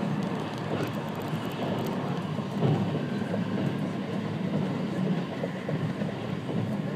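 E653 series electric train running at speed, heard from inside the passenger cabin: a steady low rumble of wheels on rail and running gear, briefly louder about a third of the way in.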